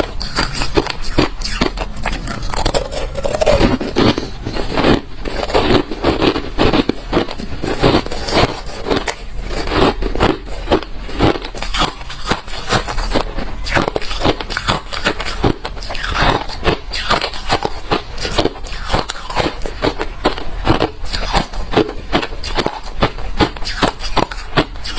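Close-miked chewing of hard refrozen crushed ice: a dense run of loud, sharp, irregular crunches and cracks.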